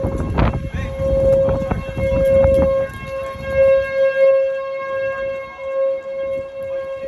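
Outdoor tornado warning siren sounding a steady, sustained tone. Wind buffets the microphone heavily for the first three seconds or so, then eases.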